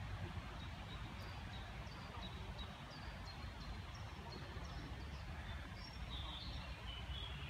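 A small bird chirping over and over, short high notes about two or three a second that grow louder near the end, over a steady low rumble of outdoor background noise.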